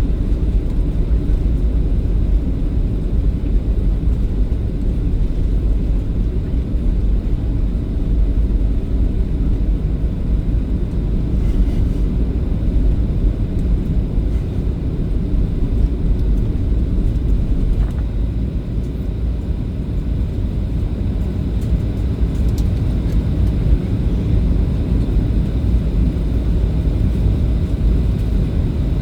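Airliner cabin noise heard from inside the cabin: a steady low rumble of the engines and airflow.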